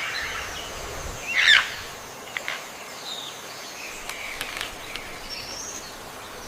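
Tropical forest ambience: a steady background hiss with scattered bird calls and chirps, the loudest a sharp, rising-and-falling call about a second and a half in.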